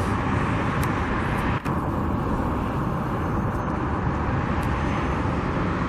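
Steady roar of freeway traffic, cars and trucks streaming past on the interstate. There is one brief knock about a second and a half in.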